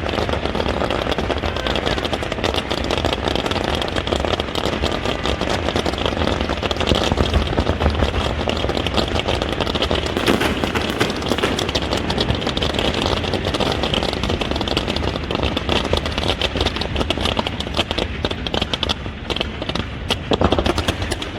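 Harbour fireworks display going off continuously: a dense, rapid crackle of many small bursts with heavier bangs mixed in.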